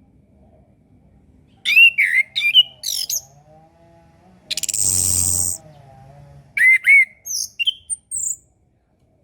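Chestnut-capped thrush (anis kembang) singing: quick runs of sharp rising and falling whistled notes in two bursts, with one harsh, hissing note of about a second between them.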